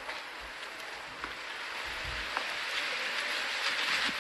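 Wind noise rushing over the microphone, growing louder toward the end, with a few faint clicks.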